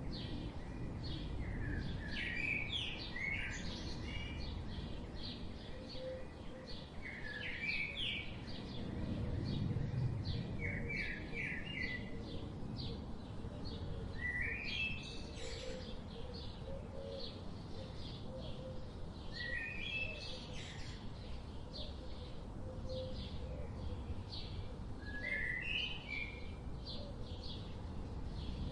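Songbirds chirping and singing: a short phrase of quickly rising notes comes every few seconds amid many rapid high chirps. A steady low rumble runs underneath.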